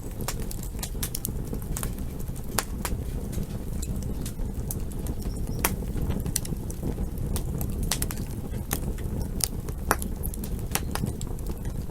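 Wood campfire crackling: a steady low rumble of burning with frequent sharp, irregular pops and snaps.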